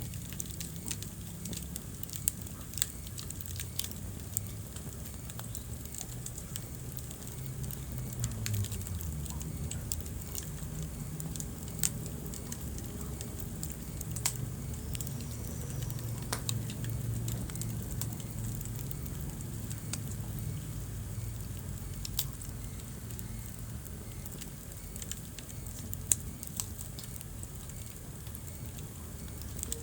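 Wood fire burning in a fireplace: a steady low rumble of flame with scattered sharp crackles and pops every few seconds, the loudest pop near the end.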